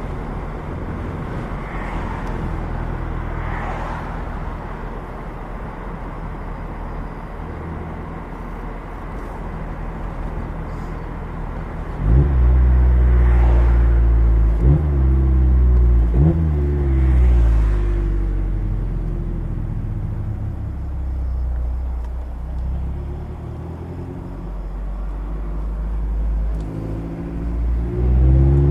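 Mazda MX-5 Miata four-cylinder engine through a Goodwin Racing RoadsterSport race exhaust, heard from the open cockpit. It runs at a steady cruise with a low rumble and road and wind noise. About 12 seconds in it suddenly gets loud under hard acceleration, its pitch climbing with two sharp breaks about a second and a half apart, then it eases off and builds again near the end.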